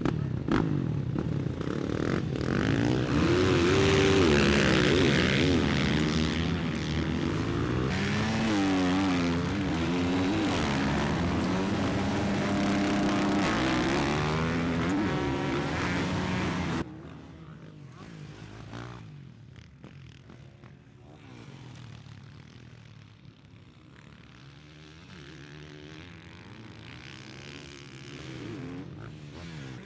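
Motocross bike engine revving up and down, its pitch rising and falling repeatedly. About seventeen seconds in it cuts off abruptly, leaving fainter motorcycle engine sound.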